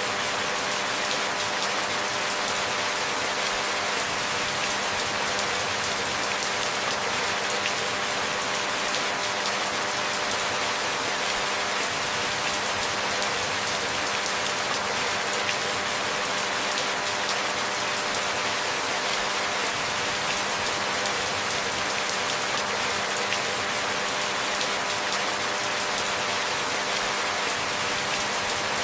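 Steady rain falling, an even hiss of many fine drops with no let-up or change in strength.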